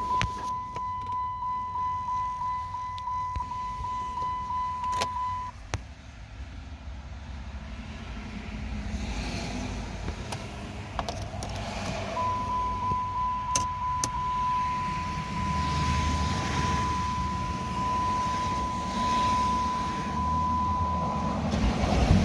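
Dodge Charger SRT8's 6.1-litre HEMI V8 idling through a modified exhaust, with an uneven pulse that grows louder in the second half. A steady high electronic tone, like a car warning chime, sounds for the first few seconds and again through most of the latter half. A couple of sharp clicks come about five seconds in.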